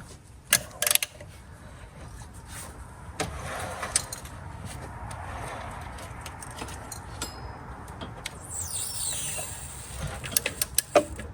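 Hand tools working on the truck's engine bolts: scattered sharp metal clinks and knocks with scraping between them, as a 10 mm bolt is worked loose.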